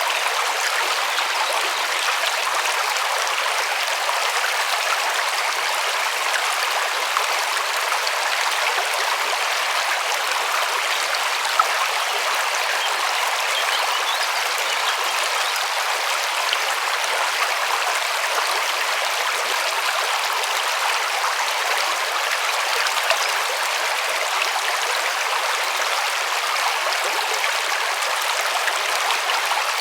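River water flowing and rushing over stones, a steady, even rush of water with no pauses.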